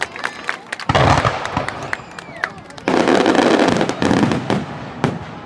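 Aerial fireworks bursting: rapid crackling pops throughout, with two loud bursts, one about a second in and a longer one at about three seconds, each lasting over a second.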